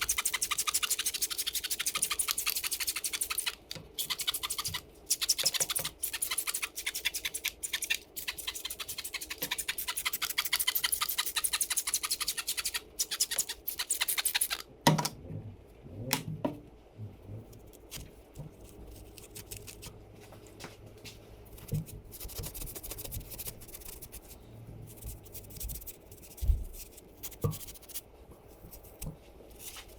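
Brisk scrubbing of a dirt-bike engine's casings with a brush or scouring pad, with rapid back-and-forth strokes and a few short pauses. About halfway through the scrubbing stops, giving way to quieter handling with scattered clicks and a few knocks.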